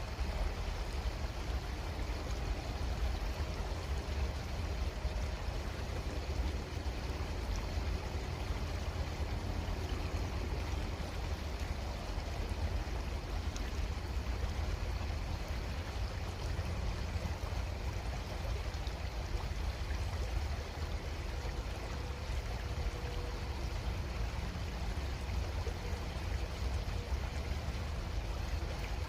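Creek water flowing steadily, an even rushing noise with a strong low rumble underneath.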